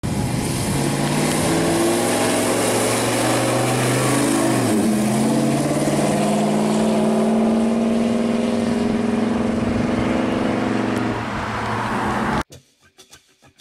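A 1972 Chevrolet Chevelle SS V8 drives past on the road. Its exhaust drones steadily as it approaches, the pitch drops about five seconds in as it goes by, and it keeps running as it pulls away. Near the end the engine sound cuts off abruptly and faint music begins.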